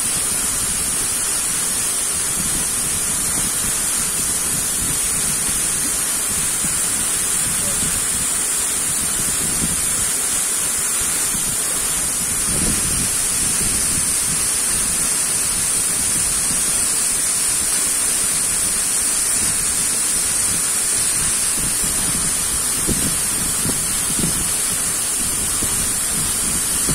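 Waterfall's water rushing in a steady, loud, unbroken hiss.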